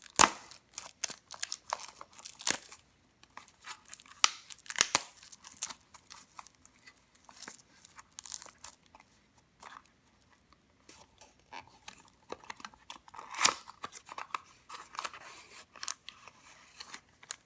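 Toy car packaging being opened by hand: irregular tearing, crinkling and rustling with sharp clicks and snaps, a few louder ones about 5 s and 13 s in.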